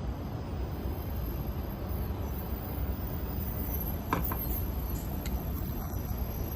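Wind buffeting the microphone outdoors, a steady low rumble, with a couple of light clicks about four seconds in.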